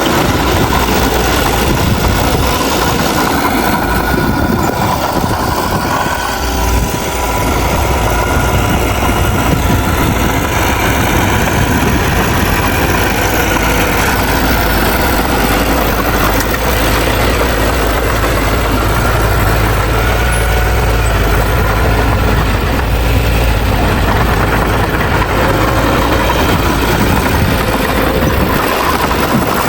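Heavy diesel engine of earthmoving machinery running steadily, with a low drone that grows stronger about seven seconds in.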